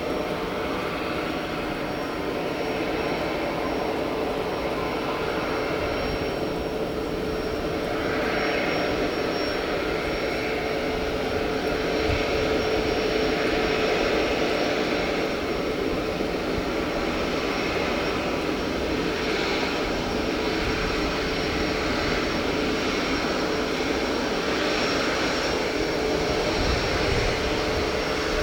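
Airliner engines running steadily with a constant whine, growing slightly louder about eight seconds in.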